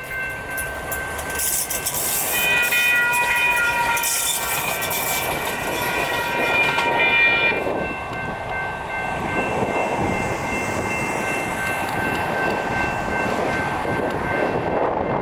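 Electronic railroad crossing bell ringing steadily while a Siemens-Duewag U2a light rail train passes through the crossing. From about two to seven and a half seconds in, a second, higher chord of tones sounds over the bell. The train's running noise fills the second half.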